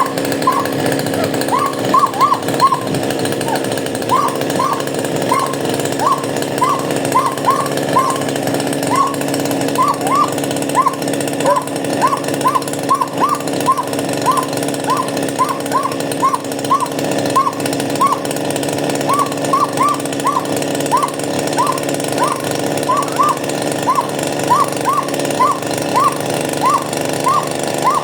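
Chainsaw engine running steadily, with short high chirps repeating irregularly about twice a second over it.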